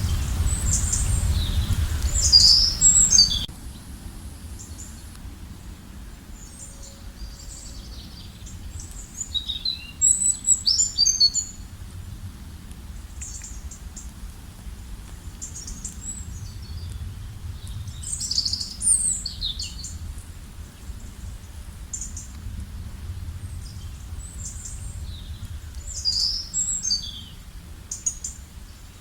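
Songbirds singing outdoors: a short, bright song phrase recurs about every eight seconds, with quieter chirps between. A low background rumble drops away suddenly a few seconds in.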